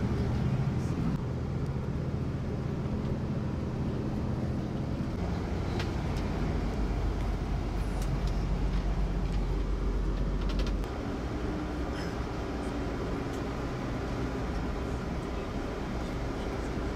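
Steady engine drone and road rumble inside a moving tour bus. It eases off a little about eleven seconds in, with a few light rattles and clicks along the way.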